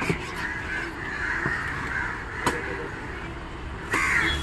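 Harsh bird calls, with a sharp knock about two and a half seconds in and another near the end.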